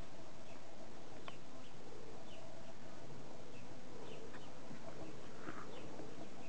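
Small birds chirping in short, high, falling chirps, one or two a second, over steady outdoor background noise, with a fuller call about five and a half seconds in.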